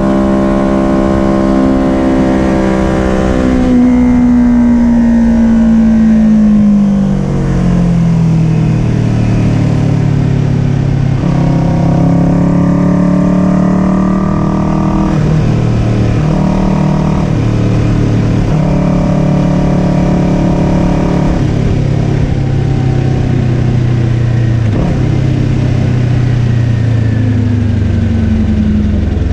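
Kawasaki Ninja 400 parallel-twin engine at racing revs, heard onboard with wind noise. It holds a high pitch, then drops steadily over a few seconds from about four seconds in as the bike brakes and downshifts, then climbs and falls in shorter steps through the gears.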